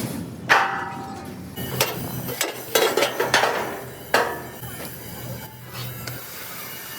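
Irregular hammer blows and clanks on steel, some leaving a short metallic ring, over a steady low machine hum.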